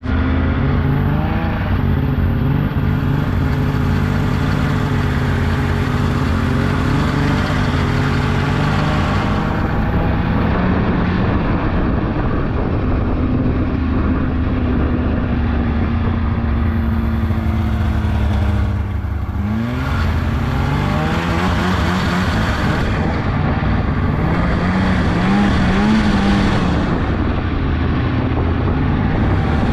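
Polaris 600cc two-stroke snowmobile engine running under way. The pitch holds mostly steady, drops off about two-thirds of the way through, then rises again as the throttle comes back on.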